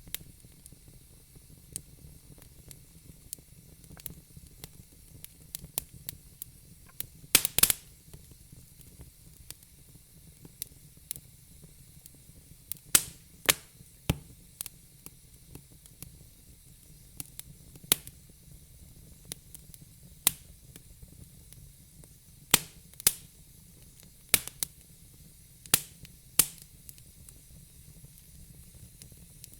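Wood burning in a fire pit, crackling: sharp, irregular pops and snaps over a soft steady hiss, with a quick cluster of louder pops about seven seconds in.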